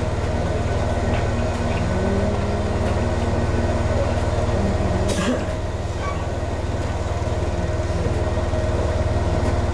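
Ex-Tokyu 7000 series electric train running on the line, heard from the front of the car: a steady low rumble with humming tones, a rising whine about two seconds in, and a sharp clack about five seconds in.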